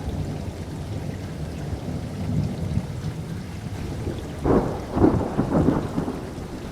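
Thunderstorm: steady rain with low rolling thunder, which swells into a series of louder cracking peals past the middle.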